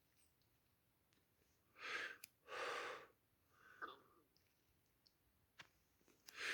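Near silence, broken by a person's breaths, two short ones about two seconds in and a fainter one near the end.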